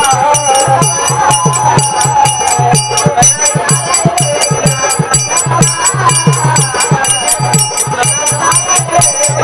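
Varkari bhajan music: singing over a fast, steady clashing of small hand cymbals and a beat of low drum strokes.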